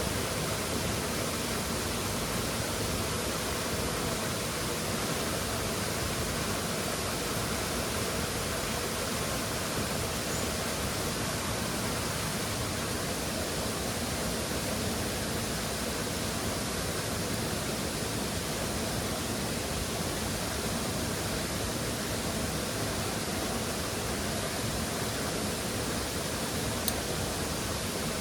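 Waterfall rushing in a steady, even hiss, with one short click near the end.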